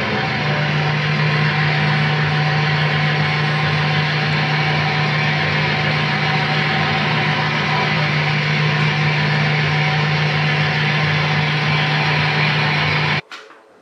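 Diesel engine sound of a model train, running steadily at idle, then cutting off abruptly near the end.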